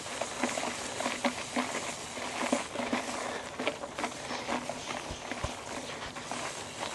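Trek Roscoe 8 mountain bike rolling over rough, uneven ground, rattling with irregular clicks and knocks, with two low thumps a little after five seconds in.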